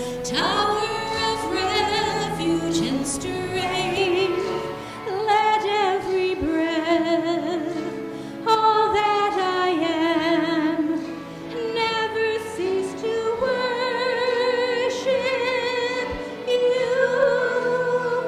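A solo singer with wide vibrato sings a slow sacred song in long held notes over instrumental accompaniment.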